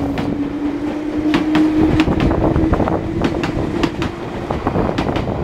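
Electric commuter train moving past close by, its wheels clicking over the rail joints in an uneven rhythm. A steady motor hum rises slightly in pitch and fades about four seconds in.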